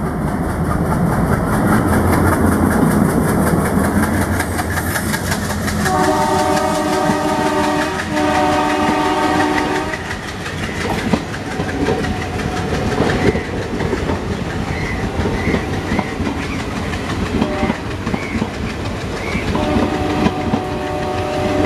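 WDG-3A diesel locomotive running close past with a heavy engine rumble, then sounding its multi-tone horn in two blasts about six seconds in and again near the end. Between the blasts the passenger coaches pass with a rhythmic clickety-clack of wheels over rail joints.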